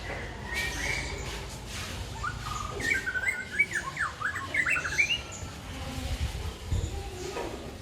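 White-rumped shama (murai batu) singing a quick run of varied chirping notes that jump up and down in pitch, starting a little over two seconds in and lasting about three seconds. A few faint clicks sound around it.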